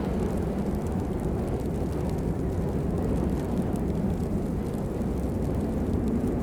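Steady rain, a constant low-pitched rush with faint scattered ticks of drops.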